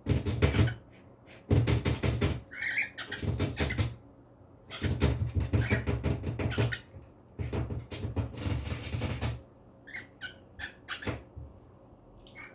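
Female cockatiel playing on a bird playground: repeated bursts of clattering and knocking as the toys and perches are shaken and struck, broken by a few short, high chirps, one about two seconds in and a cluster near the end.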